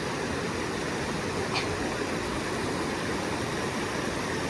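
River water flowing, a steady even rushing, with one faint click about a second and a half in.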